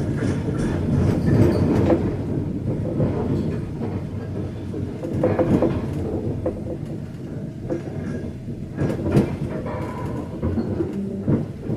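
Passenger train running on the rails: a steady low rumble with a few sharp knocks of the wheels scattered through it.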